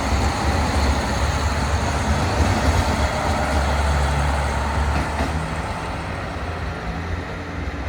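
Diesel railcar engines running with a heavy low rumble that eases off gradually over the last few seconds, with a short metallic clank about five seconds in.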